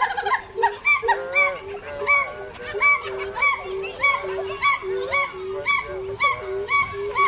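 Several birds calling together in short, repeated honks, about two to three calls a second and overlapping.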